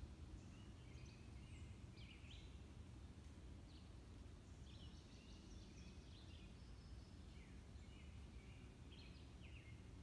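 Faint woodland songbirds chirping and calling, several short calls overlapping, over a low steady background rumble.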